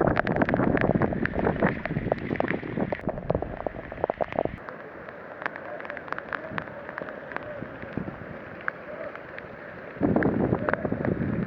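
Strong storm wind gusting and buffeting the microphone, easing off about four seconds in and picking up again near the end, with many sharp clicks and rattles scattered throughout.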